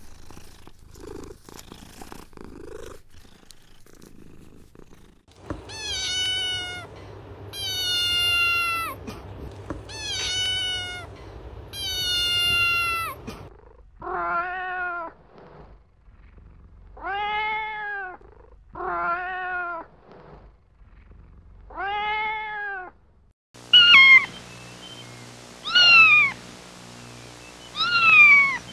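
Faint cat purring for the first few seconds, then kittens meowing: four long, drawn-out meows falling in pitch, then four shorter, lower meows that rise and fall. A few short, sharp meows come near the end.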